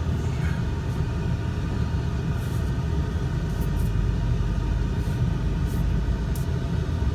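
Vehicle engine running and the vehicle rolling slowly, a steady low rumble, with a few faint clicks in the last couple of seconds.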